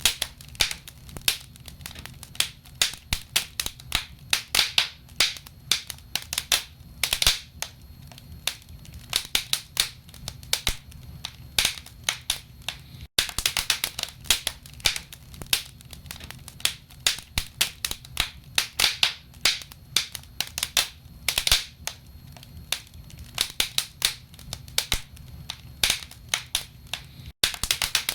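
Wood fire burning in a fireplace: logs crackling and popping in irregular sharp snaps over a low, steady rumble.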